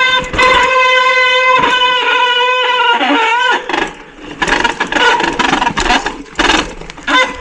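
Mountain bike brake squealing under braking: a loud, steady high tone with overtones that wavers and stops about three and a half seconds in. After it, crackling and clicking of tyres over rough ground and twigs.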